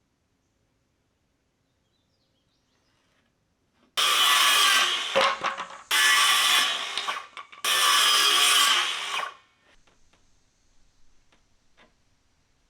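Power tool run on wood in three loud bursts of about a second and a half each, starting about four seconds in, with a few faint knocks afterwards.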